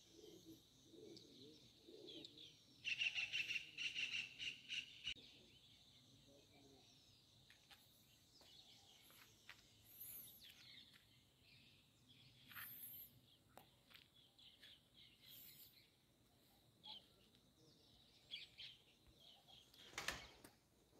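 Faint bird chirps, with a quick run of rapid chirping about three seconds in that lasts some two seconds, then scattered high chirps. A single sharp knock near the end.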